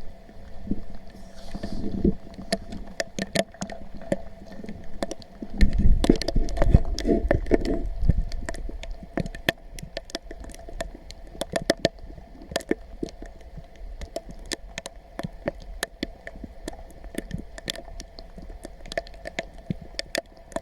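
Footsteps squelching and splashing through wet mud and shallow stream water, with many sharp clicks and a louder low rumbling stretch from about six to eight seconds in.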